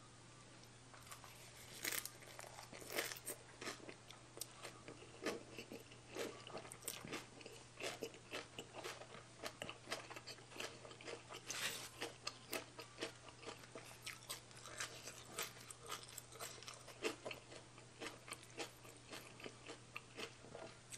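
Close-miked chewing of a leaf-wrapped bite of spicy baby cuttlefish salad: irregular crunches and mouth clicks, several a second, over a faint steady low hum.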